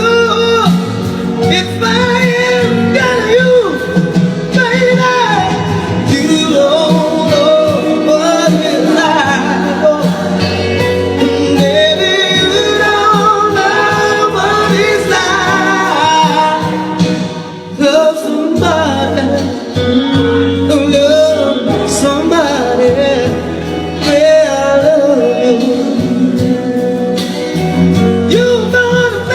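A man singing a melody with long held notes over instrumental accompaniment.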